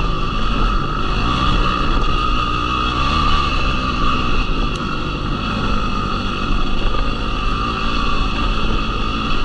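A Yamaha YFZ450R sport quad's single-cylinder four-stroke engine running steadily while riding a dirt trail.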